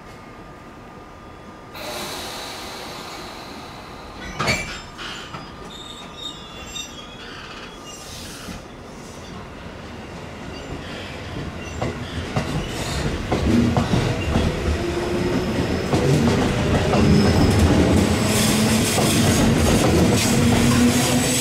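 JR West 221 series electric train pulling out of the platform. A hiss comes about two seconds in and a sharp clunk a couple of seconds later. Then the running noise of motors and wheels grows steadily louder as it gathers speed, with some wheel squeal on the curved track.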